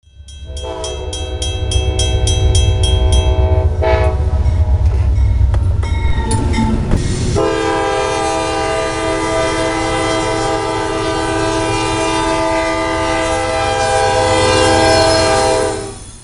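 Locomotive air horn sounding a chord of several tones over a low engine rumble. It gives a blast of about three seconds, then a few short broken notes, then one long blast of about eight seconds that cuts off suddenly near the end.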